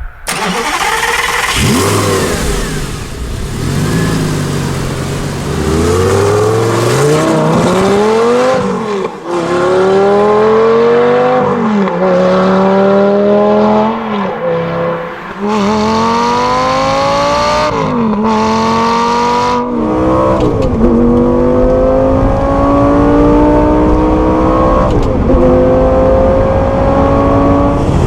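Lamborghini Gallardo Spyder's V10 engine accelerating hard through the gears. Its pitch climbs and drops suddenly at each upshift, several times, then rises slowly and steadily near the end.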